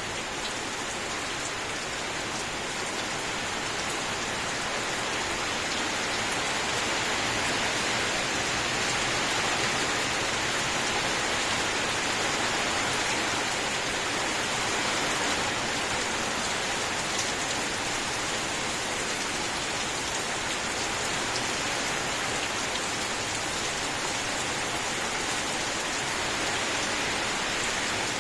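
Steady rain falling: an even hiss with the odd separate drop ticking out.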